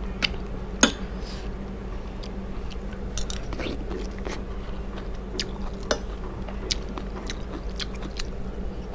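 A person chewing a mouthful of rice close to a clip-on microphone, with scattered sharp clicks, the loudest about a second in, over a steady low hum.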